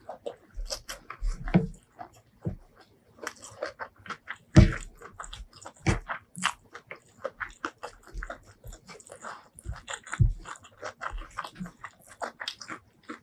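Close-miked chewing and biting: a run of irregular wet smacks and clicks of food in the mouth, the loudest about four and a half seconds in.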